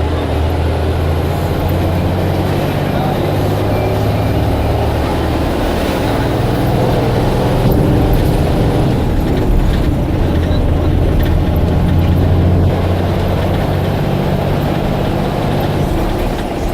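Blue Bird All American bus engine running continuously with a low drone that grows stronger and eases off a few times, over steady road noise.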